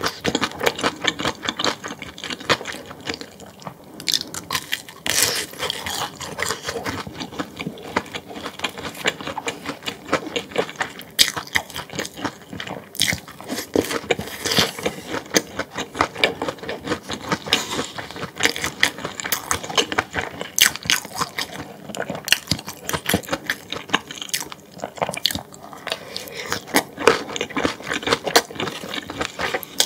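Close-miked chewing and biting of food: a dense, irregular run of small crunches and mouth clicks.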